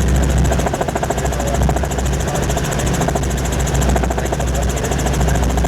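Helicopter rotor and turbine engine running in flight: a steady, loud low drone with a rapid, even beat.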